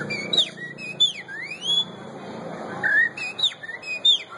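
A man's whistled imitation of a pixarro (green-winged saltator) song: a string of short, clear sliding whistles, some swooping sharply down and others rising, given in several phrases.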